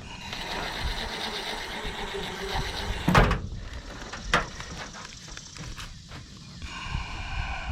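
Power screwdriver running as it drives a screw through metal roofing for about three seconds, followed by two sharp knocks, then a second short run of the driver near the end.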